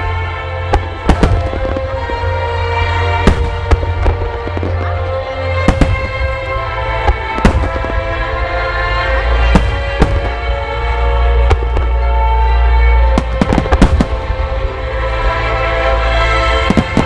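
Large starmine fireworks display, with shells bursting in sharp reports about once a second and sometimes in quick clusters, over sustained music played with the show.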